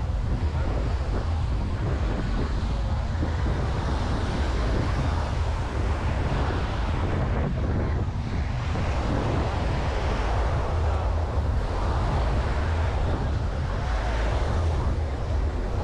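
Surf washing up on a sandy beach, swelling and easing every few seconds, with wind buffeting the microphone in a steady low rumble.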